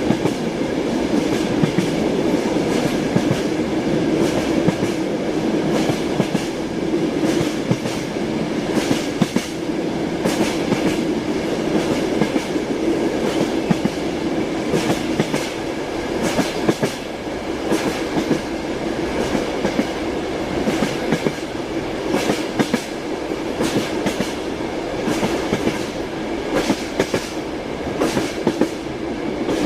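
Train wheels clattering over rail joints: a continuous rumble with repeated clicks and knocks of a moving railway carriage.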